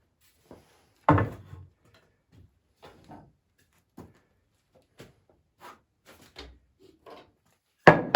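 Poplar boards of a porch swing being handled: a loud wooden knock about a second in, scattered light taps and clicks, and another sharp knock near the end.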